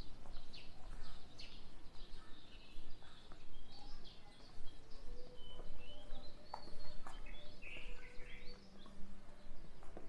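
Small birds chirping and calling, with short chirps and a few brief held whistling notes, over a steady low background rumble.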